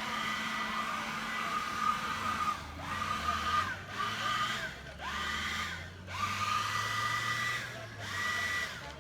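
A power blower blasting dirt and gravel, its motor whining with a rush of air. It cuts out and spins back up about five times, and a low engine hum runs underneath through the middle.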